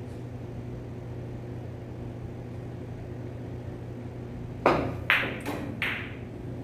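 Billiard balls on a three-cushion table clacking: four sharp, ringing clicks in quick succession, about 0.4 s apart, in the last two seconds. A steady low hum runs underneath.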